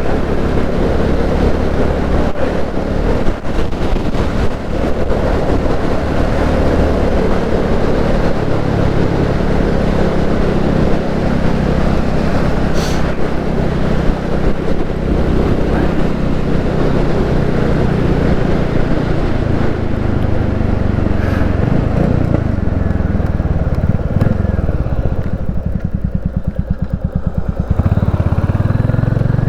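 Royal Enfield Classic 350's single-cylinder engine running under way, with wind rush over it. Near the end the revs fall away until separate firing beats can be heard, then it picks up again about two seconds before the end.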